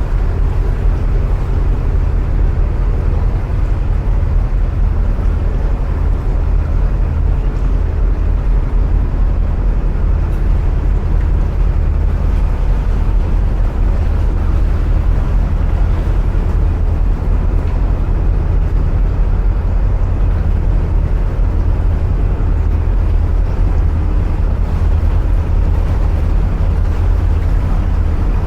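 Narrowboat diesel engine running steadily at cruising speed inside a canal tunnel, a loud, even low hum with no change in pace.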